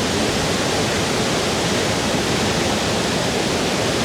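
Plodda Falls, a 46 m waterfall at full force, heard close up: a loud, steady, even rush of falling water with no let-up.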